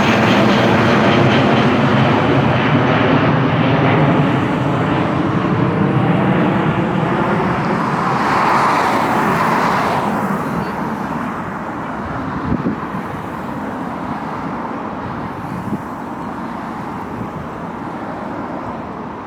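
Widebody jet airliner climbing out after takeoff: loud jet engine rush with a faint falling whine, fading steadily as the aircraft moves away.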